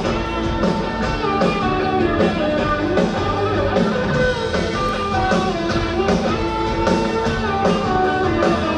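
Rock band playing an instrumental passage: guitar melody over a steady drum beat.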